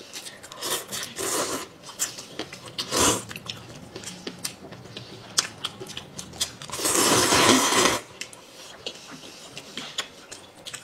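Close-up eating sounds: chewing and biting with many small clicks and crunches, broken by a loud noisy rush lasting about a second, about seven seconds in.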